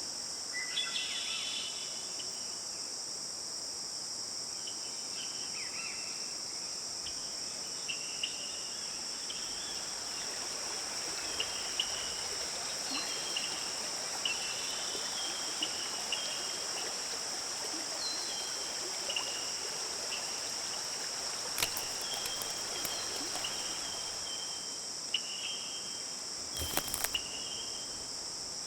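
Outdoor ambience of a steady, high-pitched insect chorus, with short bird chirps coming and going and a few brief clicks in the second half.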